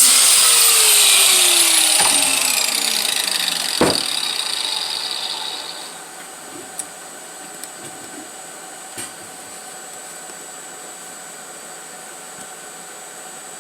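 A power tool spinning down after being switched off: a falling whine and fading noise over the first few seconds, with a sharp knock about four seconds in. Then low steady background hum with a few faint clicks.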